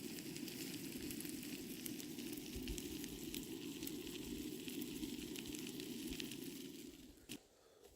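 Sausages sizzling as they fry, a steady hiss with fine crackling pops, fading out about seven seconds in.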